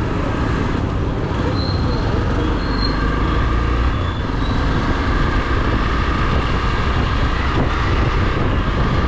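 Vehicle on the move: a steady engine and road rumble, heaviest in the low end, with wind noise on the microphone.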